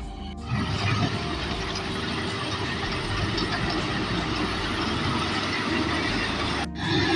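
Rice combine harvester running in the field: a loud, steady, dense mechanical rumble and clatter. It briefly cuts out near the end. A moment of background music ends just before it starts.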